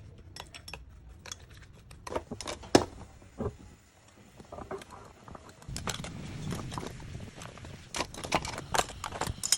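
Scattered sharp clicks and clinks of cooked sea snail shells and tableware being handled on a plate, one louder knock about three seconds in and a quick run of clicks near the end.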